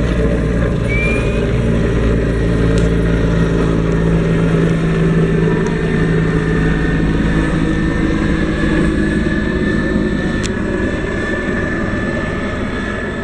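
Helicopter flying overhead: a steady drone of rotor and engine, easing slightly toward the end.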